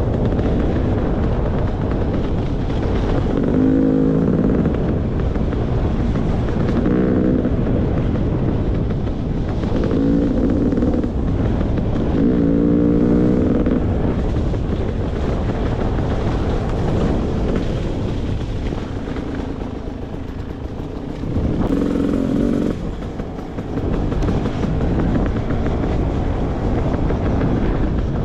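Beta 300 RR two-stroke dirt bike engine running while riding a trail, the throttle opened in short revs about five times over a steady rush of noise.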